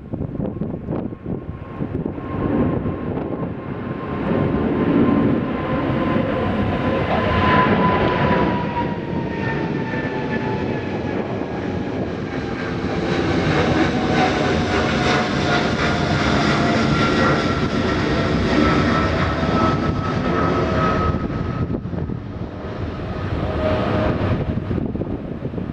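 Jet airliner's engines passing close by: a loud rush with a whine that falls slowly in pitch as the plane goes past, easing off near the end.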